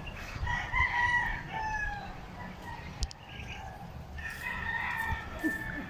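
Rooster crowing twice, each crow drawn out for about two seconds.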